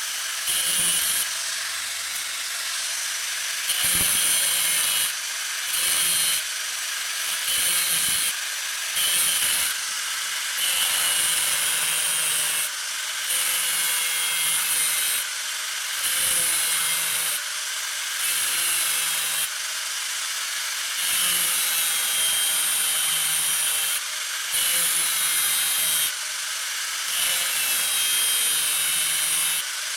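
A tool rasping on metal in repeated strokes, about one a second, each a harsh, hissy scrape that starts and stops abruptly.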